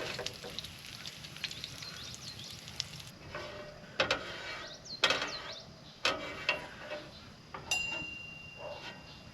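Grease sizzling faintly on a griddle, dying away about three seconds in. Then a cooking utensil knocks and scrapes against the griddle several times as cooked bacon is lifted off, ending in a sharp ringing metal clink near the end.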